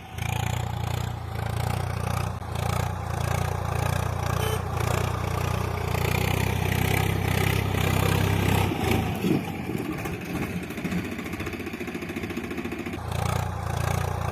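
An engine or motor running steadily with a low hum, its sound changing and easing off about nine seconds in.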